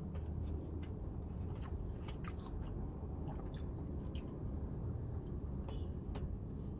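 A person chewing a mouthful of soft, chewy cheese-filled bread: small scattered mouth clicks over a steady low hum.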